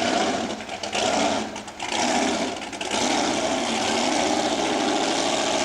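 Racing powerboat engine running at speed, dipping in level twice in the first few seconds, then holding a steady drone.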